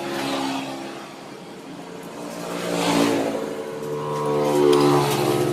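A motorcycle engine revving, swelling in loudness twice, about halfway through and again near the end.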